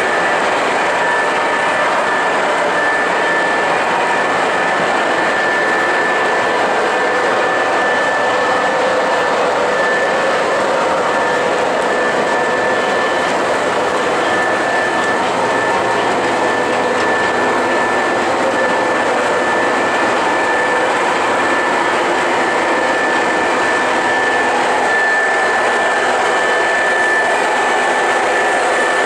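O scale model train running steadily along the layout track: a continuous rolling rumble with a thin, steady whine.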